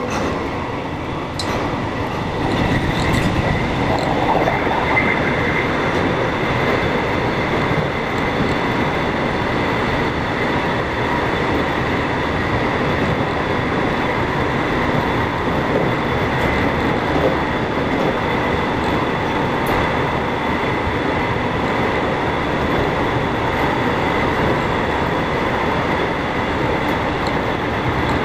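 Cabin noise inside an electric commuter train running between stations: a steady rumble of wheels on rail with a faint high whine, growing a little louder about three seconds in.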